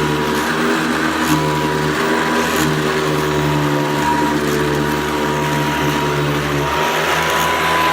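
1990 Hoover Convertible 700 Heavy Duty upright vacuum cleaner running steadily, a motor hum with a thin high whine on top.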